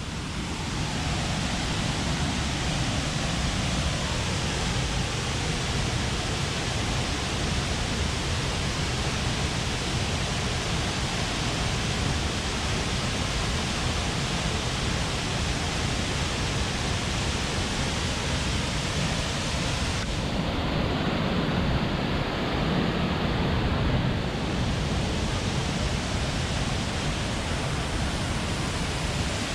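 Haew Suwat Waterfall's water pouring down onto rocks: a steady rush of white-noise-like sound that swells slightly about two-thirds of the way through.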